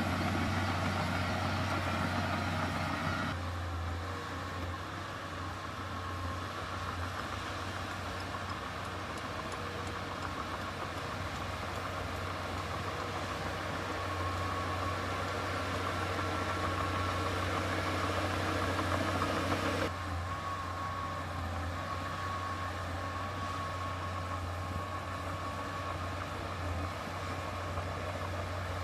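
Heavy earthmoving machine's diesel engine running steadily, with sudden changes in its sound about 3 seconds and again about 20 seconds in.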